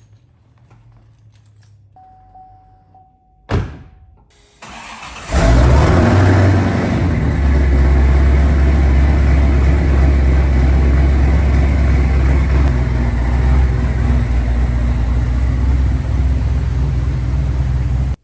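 A short steady beep and a clunk, then the Ford F-250's engine cranks briefly and starts. It runs loud and a little fast at first, settles to a steady idle, and cuts off suddenly near the end.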